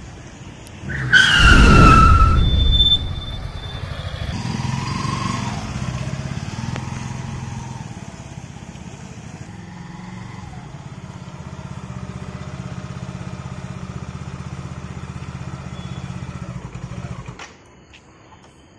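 A motorbike engine running with a steady low rumble as it rides up, cutting off suddenly near the end. Shortly after the start, a loud falling whine over a rush of noise lasts about two seconds.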